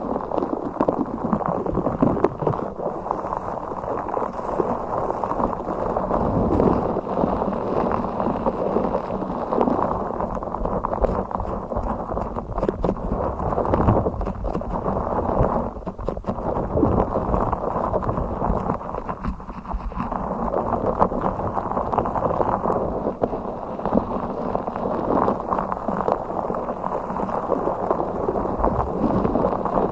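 Blue fish toy handled and squished close to the microphone: continuous muffled rubbing and scratching, dotted with small clicks.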